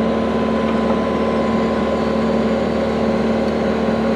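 Diesel engine of a piece of heavy equipment running steadily while pulling a water line plow through the ground.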